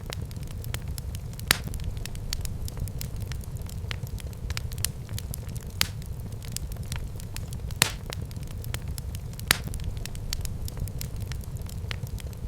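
Wood fire burning in a fireplace: a steady low rumble of flames with frequent crackles and a few sharp pops.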